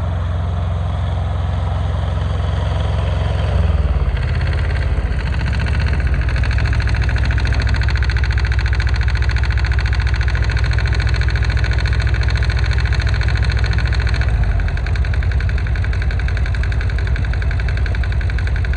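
Yanmar YM146 compact tractor's small diesel engine running: it speeds up about four seconds in, holds the higher speed for about ten seconds, then settles back down.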